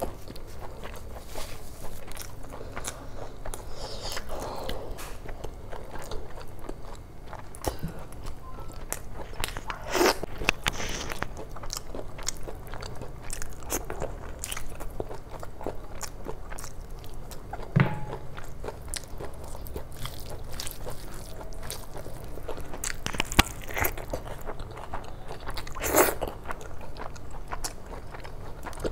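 Close-miked eating: chewing and wet mouth sounds of someone eating rice, chicken curry and boiled egg by hand, with frequent short clicks. A few louder smacks stand out, around ten seconds in and twice near the end.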